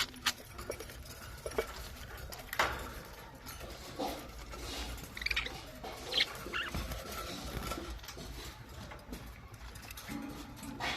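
Budgerigars in a colony giving a few short, high chirps, with scattered light clicks and scratches and a low steady rumble underneath.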